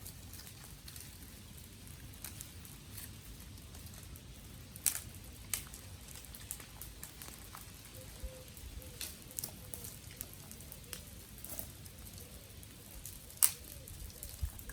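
Wood fire crackling: irregular small pops and ticks, with two louder snaps, one about a third of the way in and one near the end. A faint thin whistle joins about halfway through.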